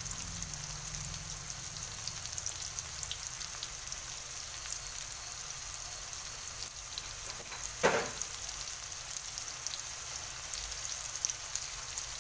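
Onion and garlic frying in hot oil in a wok: a steady sizzle with fine crackles. A single sharp knock about eight seconds in.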